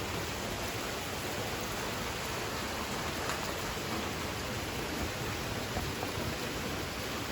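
Steady, even rushing hiss of water, with no distinct events.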